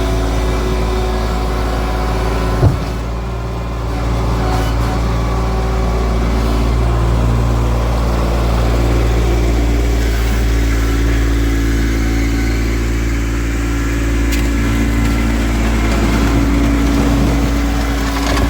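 Kubota B2650 compact tractor's diesel engine running steadily, its pitch shifting a little as the revs change. A single sharp knock sounds early on, about two and a half seconds in.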